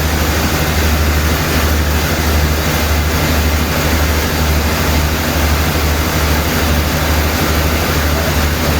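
Sawmill machinery running steadily: an even low hum with a loud hiss over it that does not change.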